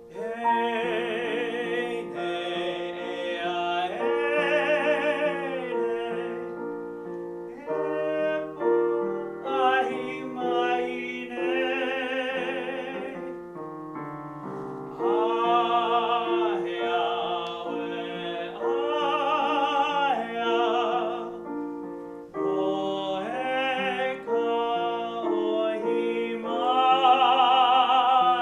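A baritone sings a Hawaiian art song in classical style with vibrato, to piano accompaniment, in phrases broken by short breaths.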